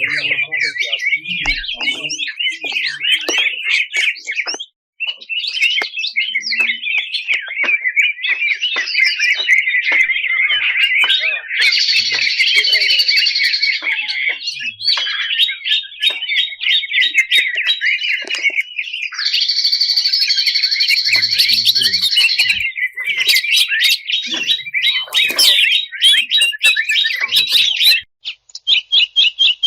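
Green leafbird (cucak ijo) singing a fast, unbroken string of harsh chirps and trills. Two rasping buzzy phrases come in the middle, and a rapid rattling series of clicks comes near the end.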